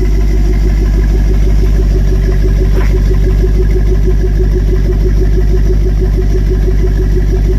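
6.1-litre HEMI V8 of a 2008 Jeep Grand Cherokee SRT8, fitted with a Flowmaster exhaust and K&N intake, idling steadily with an even, rapid pulsing rumble.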